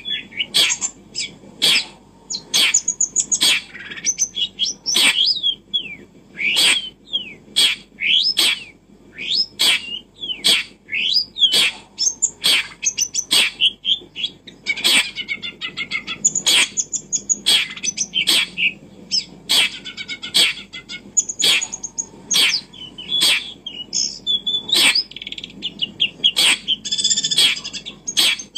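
A bird chirping and twittering in short, quick notes, mixed with frequent sharp clicks, about one or two a second.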